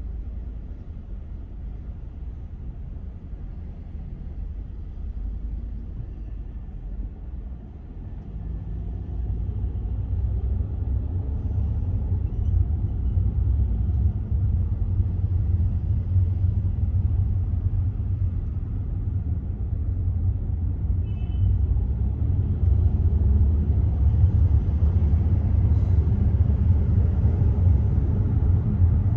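Low rumble of a car driving on city roads, steady road and engine noise that grows louder about eight to ten seconds in.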